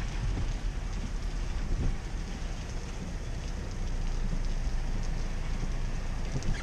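Steady rushing water noise heard from inside a car driving on flooded streets, over a low engine and road rumble.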